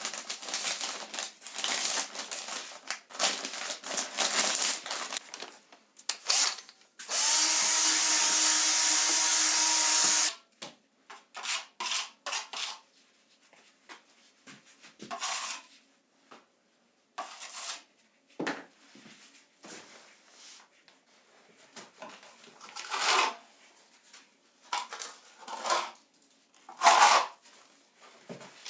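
Tools scraping and rubbing on a wall during repair work, with a power tool, likely a drill, running steadily for about three seconds some seven seconds in, then short scattered scrapes.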